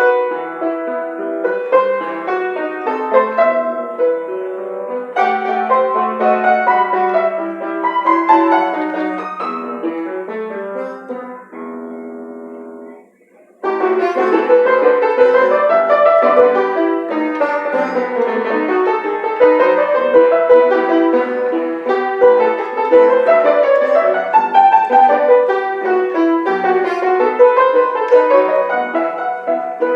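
Piano playing a pasillo, a melody over a moving accompaniment. About twelve seconds in, a chord is held and dies away, and after a short break the playing resumes at full strength.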